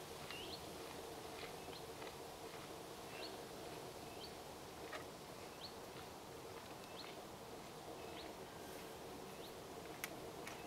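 A small bird calling: short rising chirps, about one or two a second, over a faint steady hum. One sharp click near the end.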